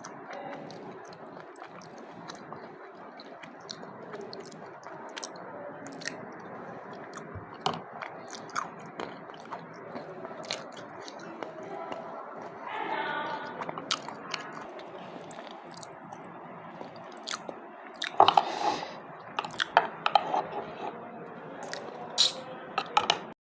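Spoon clicking against a bowl among wet squishing and chewing sounds of custard, over a steady hiss; a cluster of louder clatters comes near the end.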